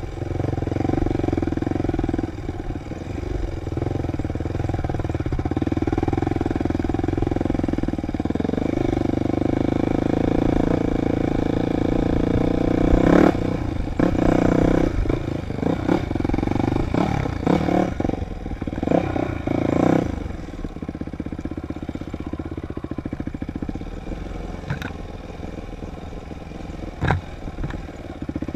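Dirt bike engine running while riding, its note rising and falling with the throttle. About halfway through comes a run of loud knocks and clatter, after which the engine settles to a lower, pulsing note.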